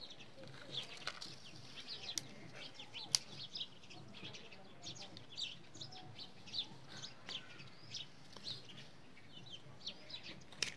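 Small birds chirping again and again in short, high calls, with a few sharp clicks among them, the loudest about three seconds in.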